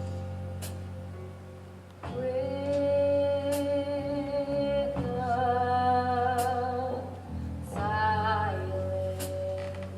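A song from a stage musical: a singing voice holding long notes over steady instrumental accompaniment, moving to a new note about two, five and eight seconds in.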